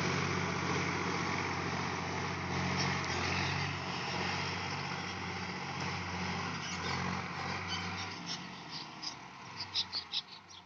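Tractor engine running steadily, fading gradually until it is barely heard about eight seconds in. A few short, high chirps follow near the end.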